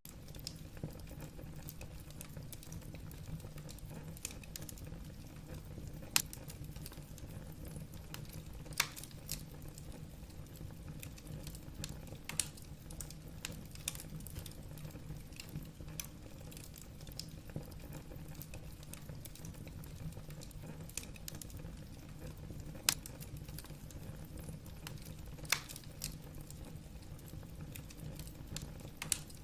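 Wood fire burning in a fireplace, the logs crackling with scattered small irregular clicks over a low steady rumble. A handful of louder sharp pops stand out.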